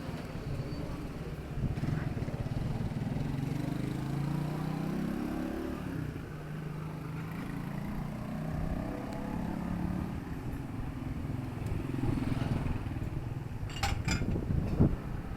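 Town street traffic: a vehicle engine passes, its pitch rising as it speeds up, followed by another engine a few seconds later. A few sharp clicks near the end.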